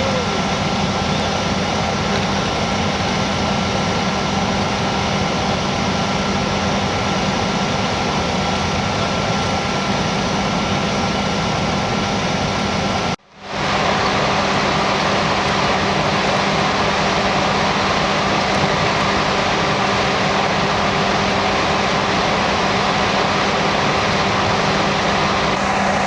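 Steady drone of idling vehicle engines, a constant hum with a higher whine over it. It cuts out for a moment about halfway through and then resumes unchanged.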